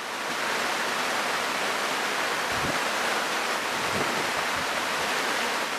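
Heavy rain falling as a steady, dense hiss that fades in at the start and fades out near the end, with a couple of faint low thumps in the middle.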